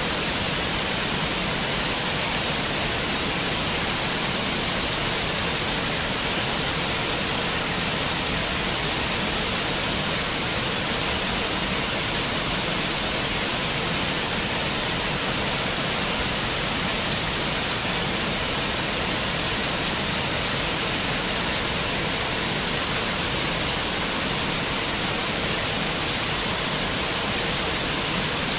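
Flowing water with a steady, unbroken rush, even in level throughout.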